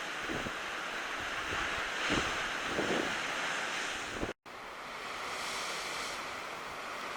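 Black Sea surf washing onto the shore, with wind buffeting the microphone in low rumbles over the first few seconds. The sound breaks off briefly about two-thirds of the way in at an edit, and the surf carries on more evenly after it.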